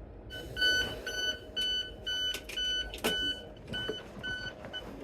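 Electronic warning beeps, one steady pitch repeated about three times a second, with a single knock about three seconds in.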